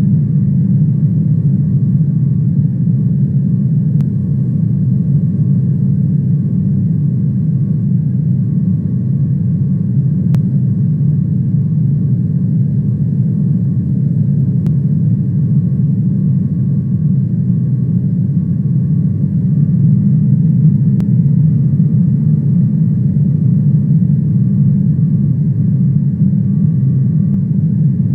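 Steady, loud rumble of a jet airliner's engines and airflow as heard from inside the cabin, with a faint, steady whine above it.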